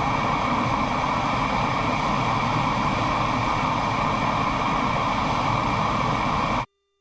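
Steady roar of jet aircraft noise, which cuts off suddenly near the end.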